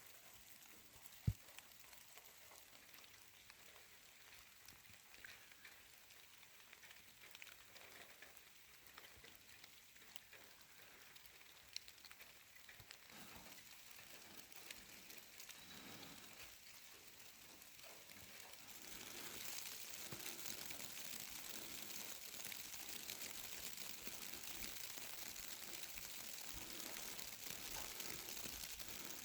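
Faint, steady crackling hiss dotted with small clicks, with one sharp click about a second in; the hiss grows louder and brighter about two-thirds of the way through.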